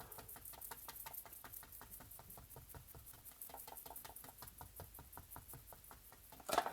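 Filbert paintbrush dabbing acrylic paint onto canvas in quick, light taps, about six a second, with one louder knock near the end.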